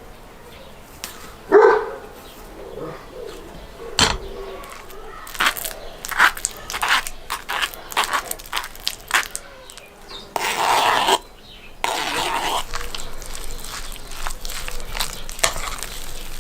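A dog barks once, loudly, about a second and a half in. After it come a run of sharp clicks and knocks and a few short rushing noises.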